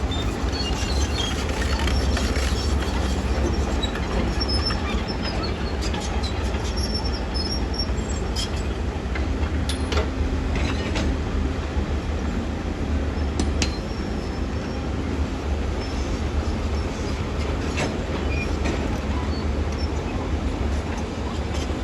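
Heavy earthmoving machinery at work: a steady low diesel rumble with short high metallic squeals and a few sharp clanks.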